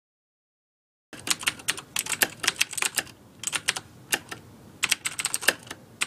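Typing on a computer keyboard: rapid, irregular keystrokes in quick bursts, starting about a second in after silence.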